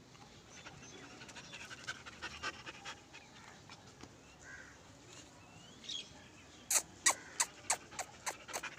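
German Shepherd puppy panting: faint at first, then close and loud in quick short breaths, about three a second, over the last two seconds.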